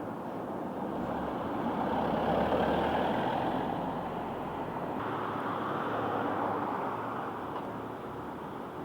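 Running noise inside a moving electric single-deck bus: a steady rush of road and body noise that swells about two to three seconds in and eases off toward the end.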